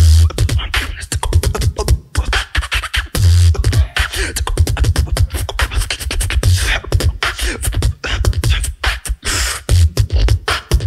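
Solo beatboxer performing through a microphone: a fast, dense pattern of vocal kicks, snares and hi-hats, with deep bass kick hits and hissing, scratch-like sounds in between.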